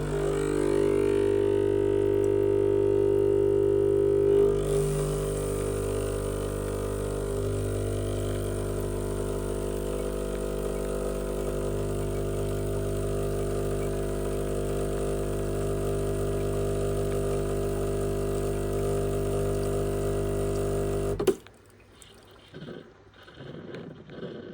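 Sage coffee machine running with a steady electric hum of many even tones. It is louder for the first four or five seconds, then settles and runs on for about twenty seconds before cutting off abruptly.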